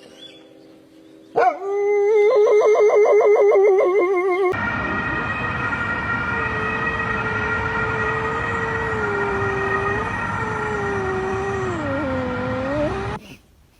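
A dog howling: first a fast, wavering warble, then a long held howl that sags lower in pitch near the end and stops suddenly, over a steady hiss.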